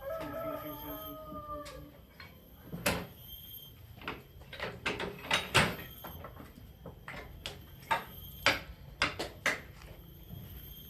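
A short squeal at the start, then a run of irregular sharp knocks and clacks, several of them loud, over a steady low hum.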